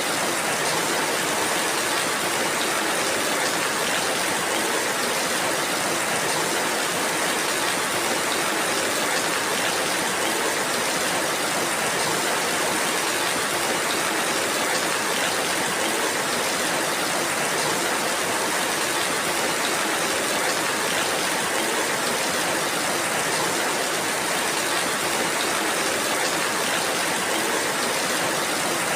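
Steady rainfall: an even, unbroken hiss of rain with no single drops, thunder or other events standing out.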